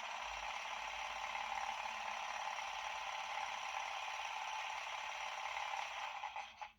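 Sound decoder in a Piko H0 model of the EU07 electric locomotive playing a steady mechanical running sound with a light rattle through the model's small speaker. It cuts off suddenly near the end.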